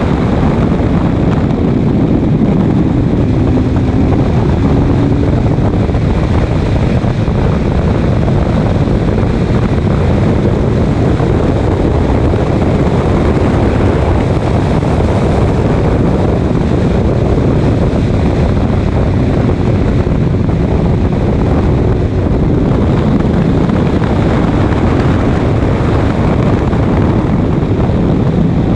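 Race car running at speed on track: engine noise mixed with heavy wind buffeting on the microphone, loud and steady throughout.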